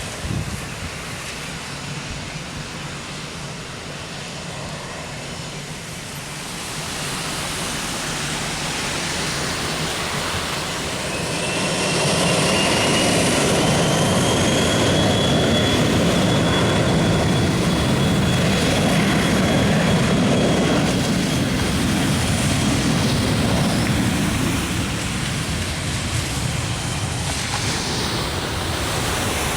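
Jet airliner's engines running as it moves along the runway, the rumble building, loudest about halfway through and then easing, with a high whine that rises in pitch.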